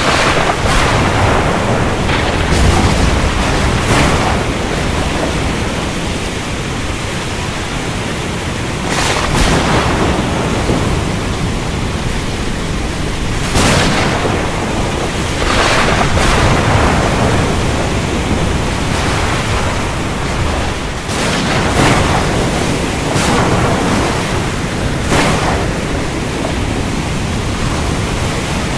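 Thunderstorm at sea: a steady hiss of rain and sea with about ten short thunder cracks a few seconds apart.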